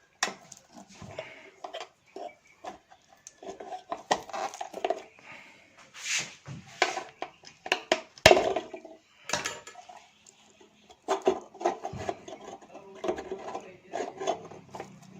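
Metal clanking, knocking and scraping as an electric geyser's heating element rod is worked loose and pulled out of the tank. The knocks come irregularly, with the loudest about eight seconds in.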